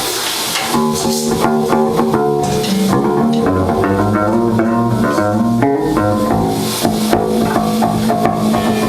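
Live rock band in a garage: electric guitar, bass guitar and drum kit playing, starting about a second in out of a steady amplifier hiss and hum.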